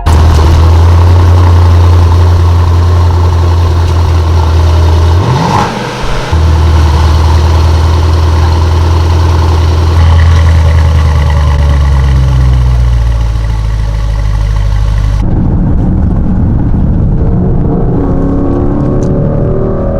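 Car running on the road, a strong steady low rumble of engine and road noise, with a brief rising rev about five seconds in. The sound changes abruptly about three-quarters of the way through, the hiss dropping away and the rumble turning rougher.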